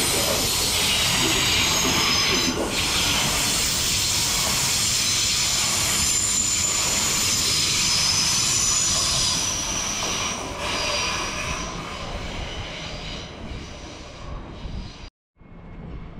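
A train running on the rails with a high-pitched wheel squeal over the steady rolling noise. It fades away after about ten seconds, and the sound cuts off abruptly near the end.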